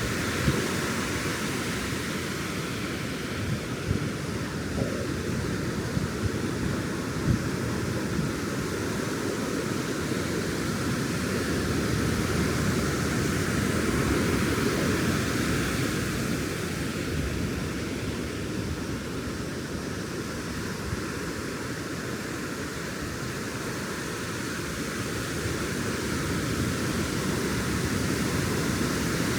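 Ocean surf breaking and washing up a sandy beach, a steady rush that swells and eases slowly.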